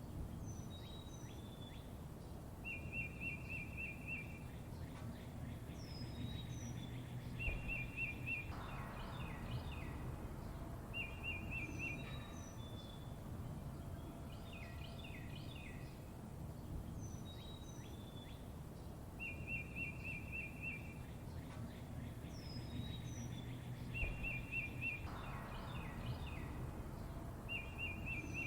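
Songbirds chirping over a low steady background rumble: short rapid trills and high, quick falling chirps. The same stretch of calls repeats about every sixteen seconds, as a loop would, with a brief low thump in each pass.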